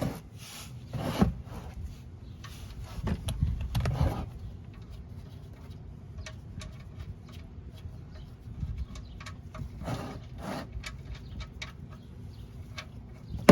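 Hand tools working at an engine oil drain plug under a car: a few rubbing, scraping handling sounds and many light, irregular metal clicks.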